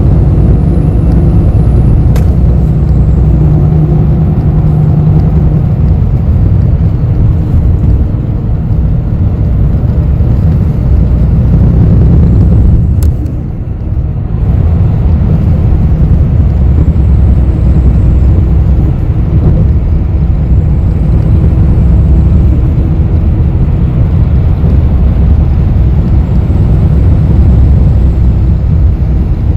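Interior of a city bus on the move: a steady low rumble of engine and road noise that dips briefly about halfway through, with an occasional sharp click.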